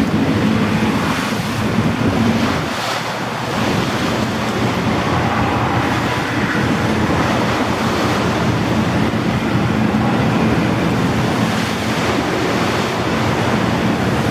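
A fast waterjet catamaran ferry running at about 26 knots: steady rushing water from its wake, buffeting wind on the microphone, and a constant low engine drone underneath.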